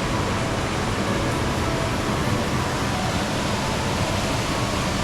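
Water pouring over a small waterfall: an even, continuous rush with no breaks.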